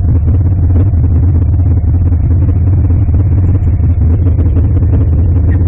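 Motor vehicle running: a steady, loud, low drone of engine and road noise.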